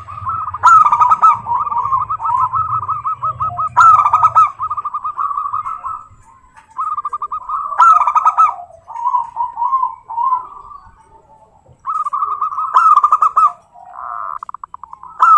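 Zebra doves (perkutut) singing: loud phrases of rapid staccato cooing notes, each opening with a sharp accented note. The phrases repeat about every three to four seconds, with short pauses between some of them.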